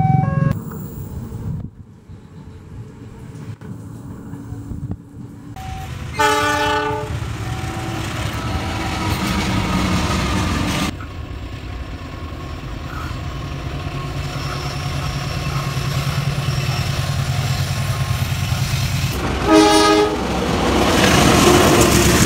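Trains going by: a train horn blast about six seconds in, then the rush of a passing train and a steady low diesel locomotive rumble. A second horn blast comes near the end, followed by the loud rush of a diesel locomotive passing close.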